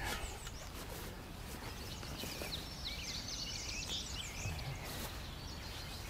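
A songbird twittering in a quick run of high chirps from about two to five seconds in, over a low, steady outdoor background noise.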